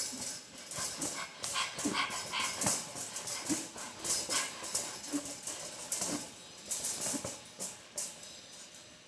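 Dog-like whimpering and short falling whines mixed with many quick scratching clicks, as of clawing at a cage to be let out.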